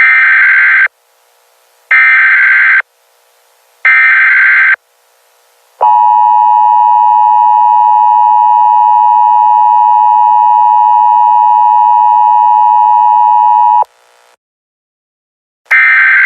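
Emergency Alert System tones. Three loud bursts of the data header, each about a second long and about a second apart, are followed by about eight seconds of the steady two-tone attention signal, which cuts off suddenly. Another short data burst starts near the end.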